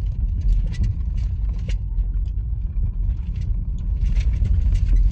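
Honda Fit driving on a snowy road, heard from inside the cabin: steady low road and tyre rumble with scattered light ticks and clicks.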